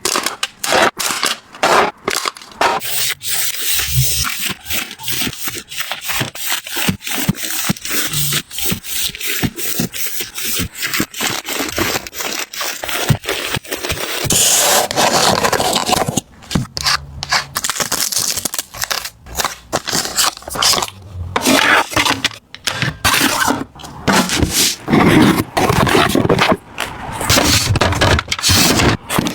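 Close-up handling of household items: a dense run of clicks, taps and scrapes as things are picked up, set down and rubbed against each other. A faint high hiss runs under the first half and stops about halfway through.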